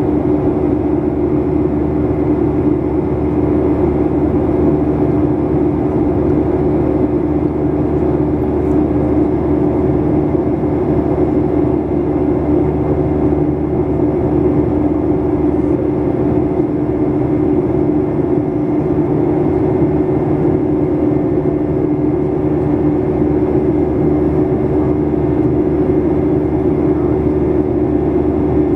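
Steady cabin noise of a Boeing 737-800 in flight: the engines and airflow make a constant drone with a strong hum that does not change.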